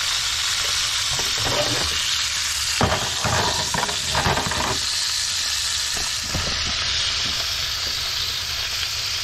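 A breakfast fry-up of bacon, black pudding and tomatoes sizzling steadily in a frying pan on a gas hob. Between about one and five seconds in there are several knocks and scrapes as the pan is shifted across the hob's metal pan supports.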